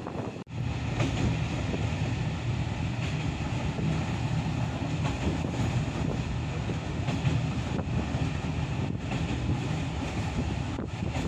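Czech-built passenger coach running along the rails: a steady rumble of wheels on track with a rush of air, heard from an open carriage window. The sound drops out briefly about half a second in.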